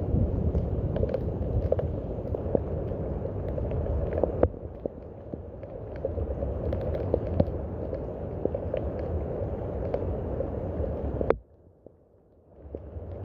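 Steady rain falling, with many separate drops ticking and spattering through it. The sound cuts off suddenly about eleven seconds in and fades back in a second later.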